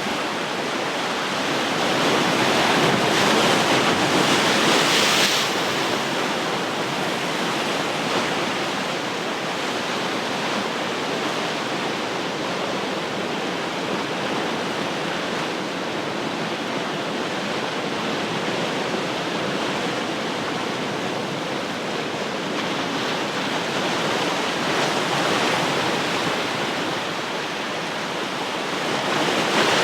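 Ocean surf: a continuous wash of waves on the shore, swelling louder as a wave breaks about two to five seconds in and again near the end.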